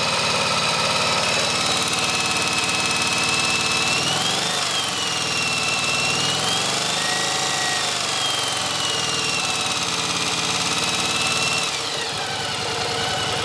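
1983 Yamaha XV750K Virago's air-cooled V-twin idling with a fast mechanical rattle, which the owner links to the cam chain. The revs rise and fall gently twice and dip near the end.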